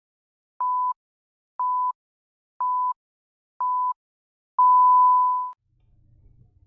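Countdown timer beeps: four short electronic beeps of one steady pitch, a second apart, then a single longer beep lasting about a second, marking the start of playback for viewers following along.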